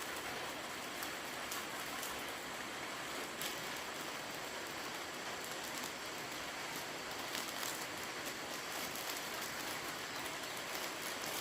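A steady, even outdoor hiss with faint scattered ticks.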